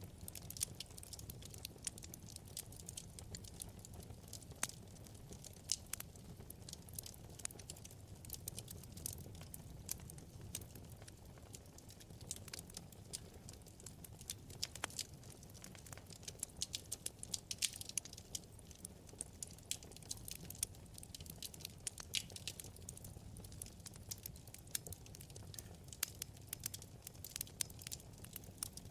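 Wood fire crackling in a fireplace: many small irregular pops and snaps over a soft, steady low rumble of the flames, with a flurry of louder snaps around the middle.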